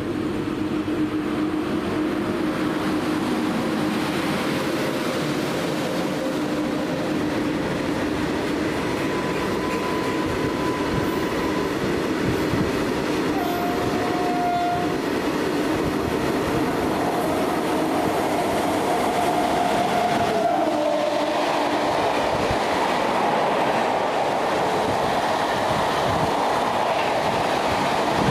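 Indian Railways WAP-7 electric locomotive hauling a passenger train through a station at speed, its horn sounding a few long blasts midway over the steady rumble of wheels on rail. Later the rush and clickety-clack of passenger coaches passing close by.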